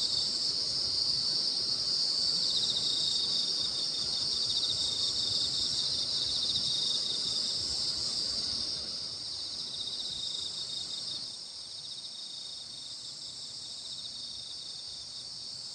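Chorus of grass insects such as crickets: a steady, high-pitched chirring with a fine pulsing trill under it. It drops a little in loudness about nine and eleven seconds in.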